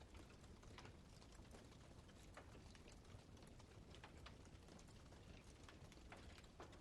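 Campfire crackling faintly: irregular small pops and snaps of burning wood over a low steady hiss.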